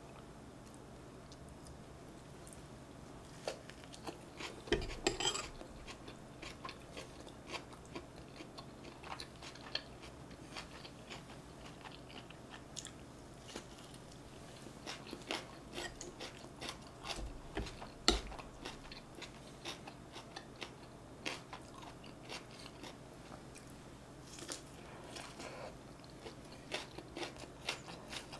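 Close-up eating sounds: biting and chewing North Korean rice pockets wrapped in fried tofu and soy artificial-meat sheets, with many small wet clicks and snaps. A few louder knocks and clicks of tableware stand out, the sharpest about 18 seconds in.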